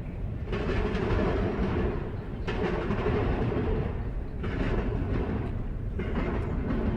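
A long freight train's cars rolling past. Steady wheel-on-rail rumble, with a higher rushing noise that swells and dips about every two seconds as car after car goes by.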